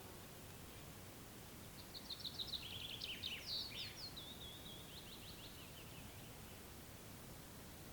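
A songbird sings one phrase of rapid, high notes starting about two seconds in, ending in a trill that fades out after about four seconds, over a steady low background noise of the open air.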